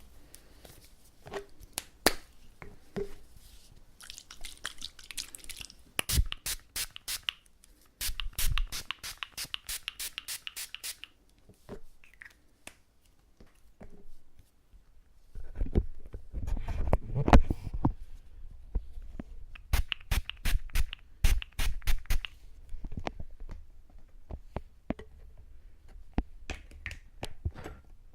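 Tweezers working wet, sticky fake earwax out of a silicone ear model, close to the microphone: bursts of rapid clicking and sticky crackling, with scraping and rubbing in between and quieter scattered ticks.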